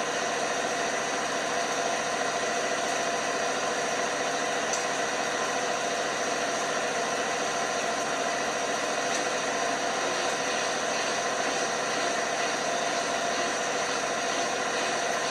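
LG washing machine running steadily: an even mechanical hum with a steady whine, and a couple of faint clicks.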